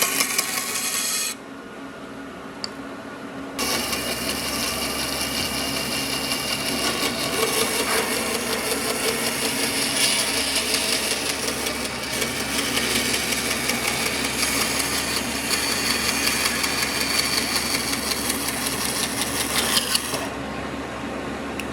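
A woodworking power tool running, with a dense rapid ticking over a low motor hum. It drops away about a second in and starts up again a couple of seconds later.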